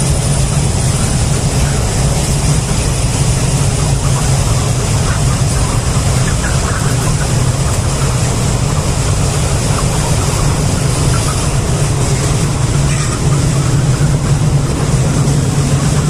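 Steady, loud mechanical hum with a constant hiss, like a machine running without pause.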